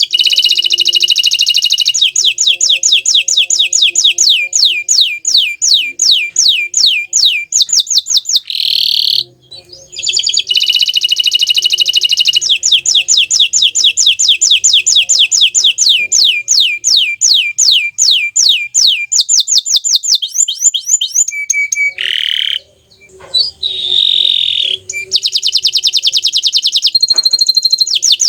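Domestic canary singing a long song of fast rolling trills, each made of rapidly repeated notes that change from phrase to phrase, with short breaks about nine and twenty-two seconds in.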